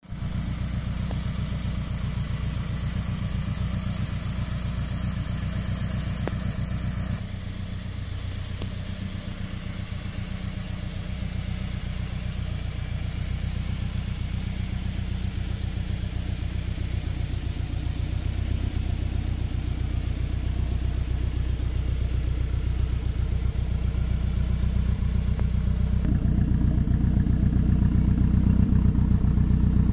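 Turbocharged Toyota GT86's 2.0-litre flat-four boxer engine (Avo Turbo Stage 3 kit) idling steadily. It grows louder and deeper near the end, heard from behind its twin exhaust tailpipes.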